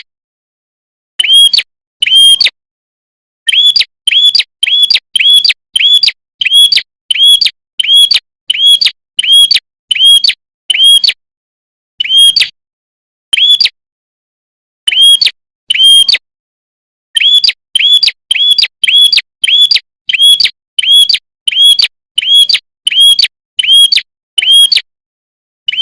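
Recorded prenjak (prinia) lure call: a short, high chirp repeated over and over in quick runs of about two a second, broken by several brief pauses.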